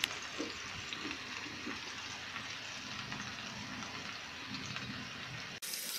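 Beef burger patty and hot dog pieces frying in oil on a flat griddle pan: a steady sizzling hiss.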